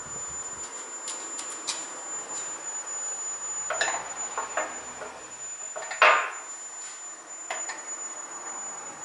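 Scattered light clicks and knocks, with one sharper knock about six seconds in, over a steady thin high whistle.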